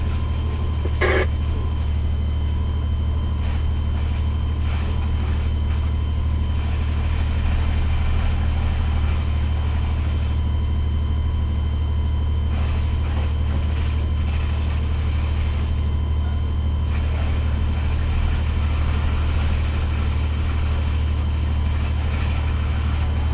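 Fire engine's diesel engine running steadily, a deep unbroken hum heard from inside the cab, with a faint steady high whine over it and a single click about a second in.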